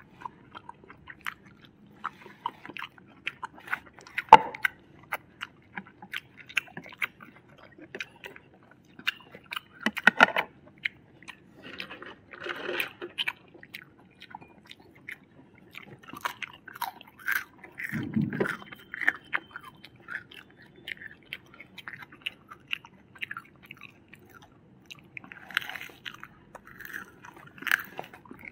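Close-miked eating: people chewing and biting food, with crisp crunching bites and irregular small clicks, a few louder bites standing out.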